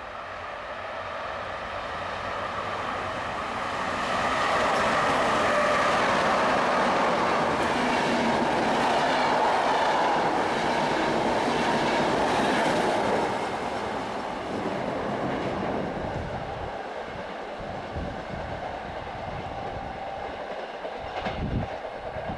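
Electric locomotive-hauled passenger train passing through the station at speed. The rush of wheels on rails builds as it arrives, stays loudest for about nine seconds while the coaches go by, then eases off as the train draws away. A single sharp knock comes near the end.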